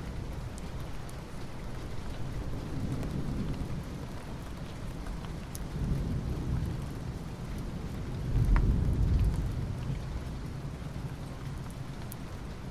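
Soft rain falling on asphalt, a steady hiss with scattered sharp drip ticks. A low rumble swells several times, loudest about two-thirds of the way through, then fades.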